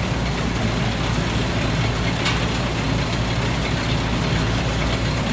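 Thai Seng Yont Chao Payu 4.0 combine harvester running steadily as it harvests rice: a continuous low engine drone mixed with machinery noise.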